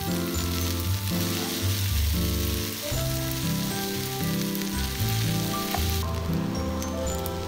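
Garlic fried rice sizzling in a hot pan as it is stirred with a wooden spatula. Background music plays with steady notes, and the sizzle cuts off suddenly about six seconds in.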